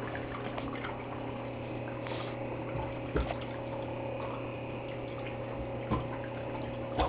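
Bath water splashing and dripping lightly as a pet moves in it, with a few small knocks over a steady low hum.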